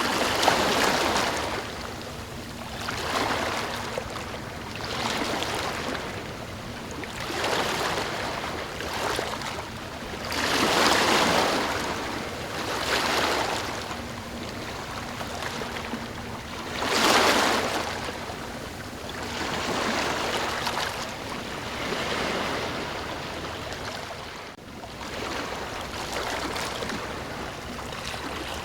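Ocean waves breaking and washing in, a surge of surf every few seconds over a steady wash, with the biggest swells near the start, about a third of the way in and just past the middle.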